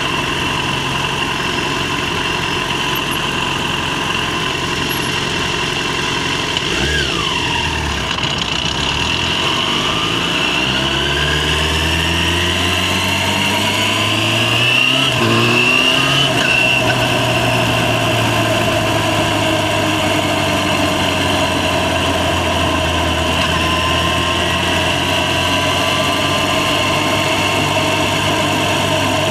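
Yamaha FZ6's 600 cc inline-four engine heard from the rider's position. It runs at low revs at first, then pulls with rising pitch and steps up a gear about halfway, then holds a steady cruise.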